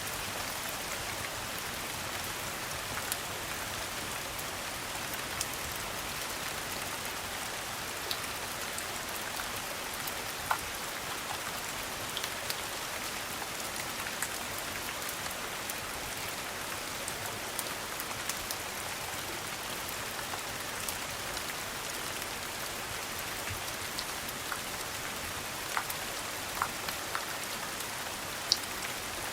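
Steady rain pattering, with scattered sharp pops and ticks from a crackling fireplace.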